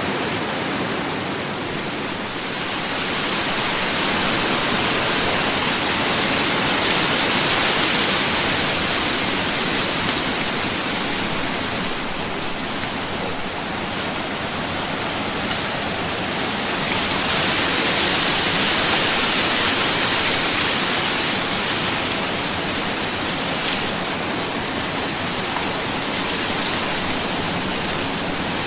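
Ocean waves washing onto a beach, a continuous rush of surf that swells and eases, with louder surges about a third of the way in and again past the middle.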